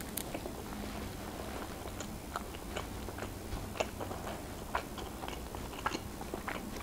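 A person biting into and chewing a slice of pepperoni pizza, with soft, irregular mouth clicks.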